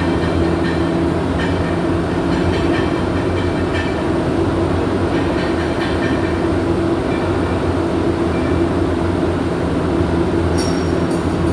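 Steady, even machine hum with a constant low drone, and a few faint high ticks near the end.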